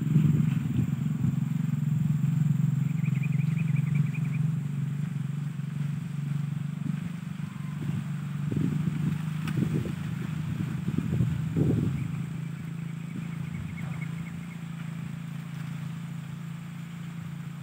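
A steady low engine drone, like a motorcycle running, with a few dull knocks around the middle. Two faint, rapid chattering bird trills come through over it, a few seconds in and again about twelve seconds in.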